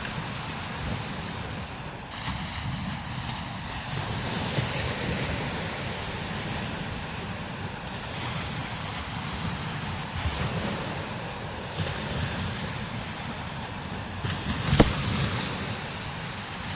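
Strong desert wind blowing over sand dunes in gusts, with a hiss of blowing sand. The wind buffets the microphone, with one sharp thump near the end.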